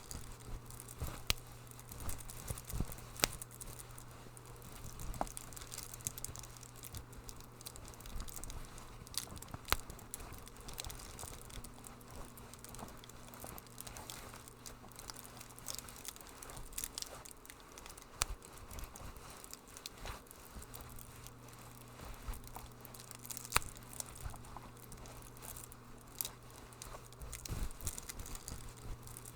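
Wood fire crackling in a fireplace: irregular sharp pops and snaps over a steady low hum, which drops out for a few seconds midway.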